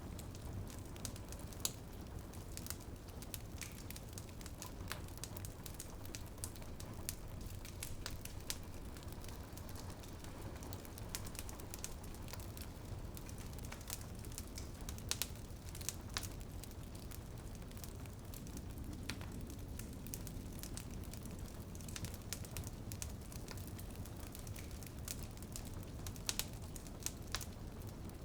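Wood fire crackling in a fireplace: irregular sharp pops and snaps, a few louder than the rest, over a steady low rush. Rain patters on a window pane underneath.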